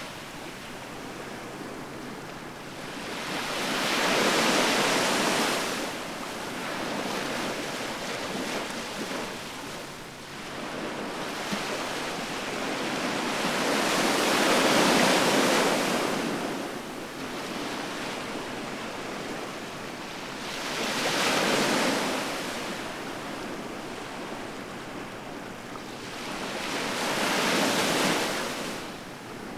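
Ocean waves breaking and washing up on the shore: four surges that swell and fade, several seconds apart, over a steady hiss of surf.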